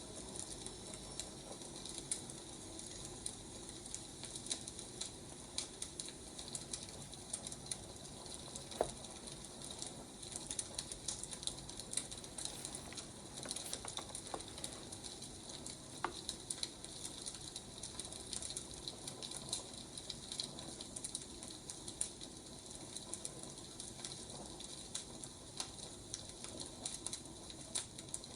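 Wood fire crackling steadily, a dense run of small snaps and pops, with a few sharper pops about a third and halfway through.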